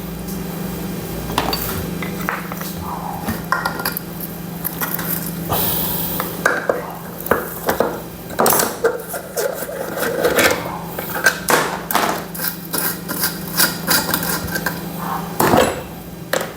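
Metal tools and engine parts clinking and tapping in irregular small clicks and knocks as the plug is taken out of a motorcycle engine cover, over a steady low hum.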